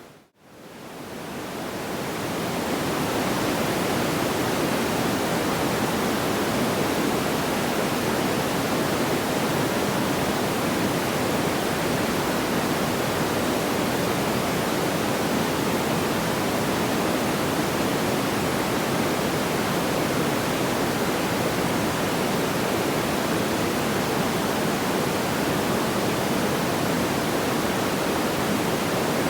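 Steady, even rushing noise like pink noise, with no distinct crackles or pops. It dips almost to silence just after the start and fades back up over about three seconds, the seam of a looped track.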